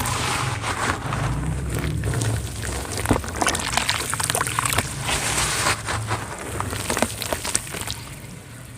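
Dry cement crumbling into wet cement paste: a dense run of small crackles and crunches, with wet pouring and sloshing sounds.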